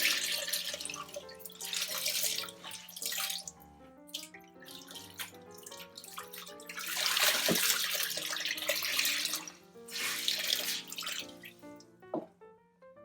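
Running water in three loud bursts, over background music with steady stepped notes.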